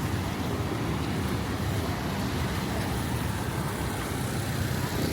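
Steady city street traffic: cars passing, a continuous low rumble with an even noise over it.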